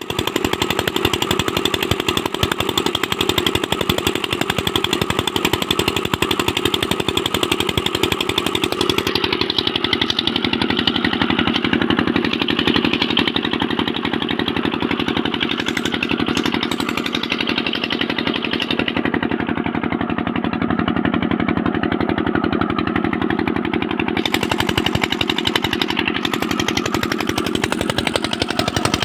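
Newly rebuilt engine, fitted with new pistons, rings and cylinder liners, running steadily with a rapid, even firing beat.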